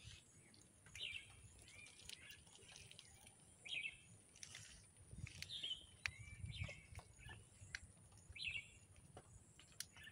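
Birds chirping: short, sharp calls repeated every second or two, over a faint low rumble.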